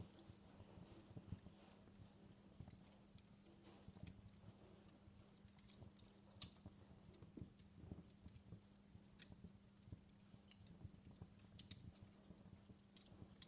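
Faint wood fire crackling in a fireplace: irregular small pops and snaps over a low steady hum.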